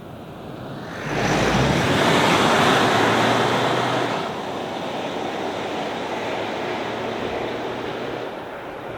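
Mitsubishi Triton dual-cab ute on the move: a loud rush of tyre and wind noise over a low engine hum. It comes in suddenly about a second in, is loudest for about three seconds, then eases to a steadier rush.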